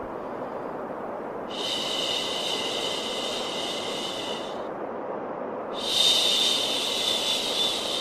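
Steady white noise with a long 'shhh' shushing sound laid over it, twice: one from about a second and a half in lasting three seconds, another starting about six seconds in and running on. A soothing sound for calming a baby to sleep.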